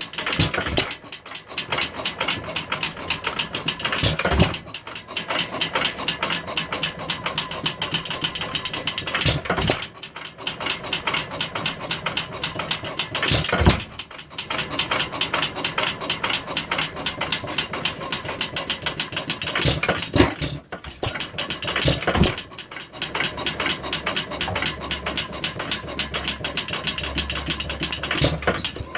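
A 1916 Woodpecker 1.5 hp single-cylinder hit-and-miss stationary engine running on a cold start with a fast, busy clatter. Louder single bangs break the run a few times.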